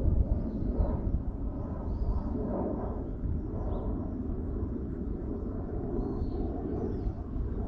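Outdoor ambience: a steady low rumble like wind buffeting the microphone, with a few faint high chirps now and then.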